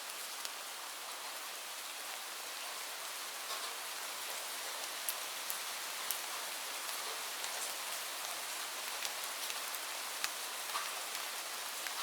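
Steady rain: an even hiss with scattered sharper ticks of single drops.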